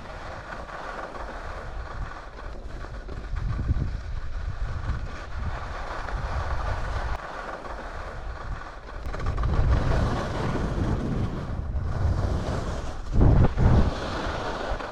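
Blizzard Rustler 10 skis running fast over firm, frozen groomed snow, a steady scraping hiss of the edges, with wind rumbling on the microphone in gusts, the strongest about thirteen seconds in.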